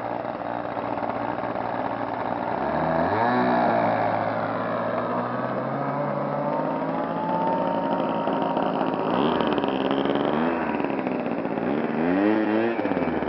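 O.S. 55AX two-stroke glow engines of radio-controlled Edge 540 aerobatic model planes running at high throttle in flight, a steady buzz whose pitch rises and falls as a plane swoops past or changes throttle, about three times.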